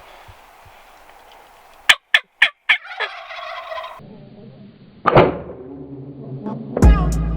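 Wild turkey gobblers gobbling: loud rattling calls about two seconds in and again around five seconds. Music comes in near the end.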